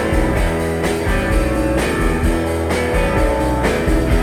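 Rock band playing live between sung lines: guitar over bass and drums, with a steady beat.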